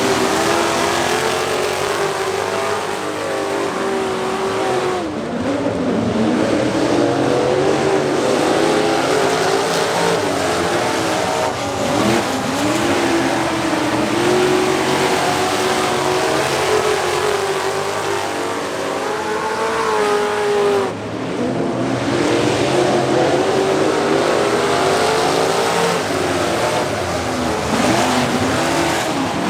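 Several race trucks' engines running hard around the oval, their pitch rising and falling as they accelerate down the straights and lift into the turns. The sound drops off briefly about five seconds in and again about twenty-one seconds in.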